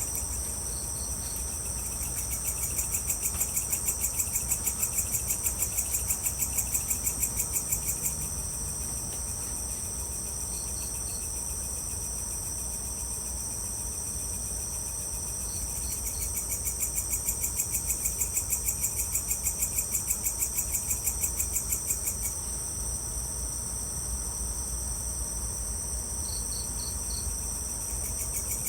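Evening chorus of crickets and other insects chirping steadily in rapid high pulses, with a second, lower pulsing chorus of about four pulses a second that swells in for several seconds twice. Every few seconds a short run of three or four quick high notes cuts through, over a faint steady low rumble.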